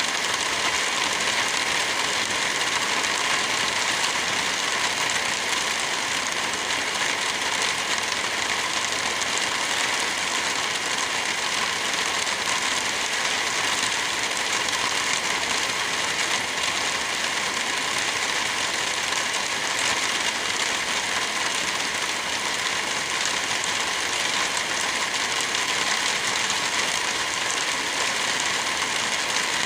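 Steady rain, an even, unbroken hiss with no thunder in it.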